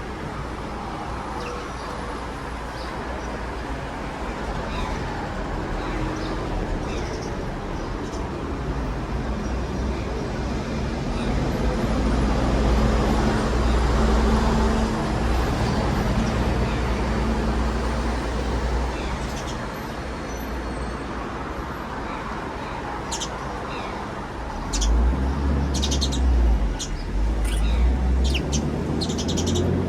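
Small birds chirping over a steady rumble of road traffic. A vehicle passes, swelling and fading about halfway through, and a run of short, high chirps comes near the end.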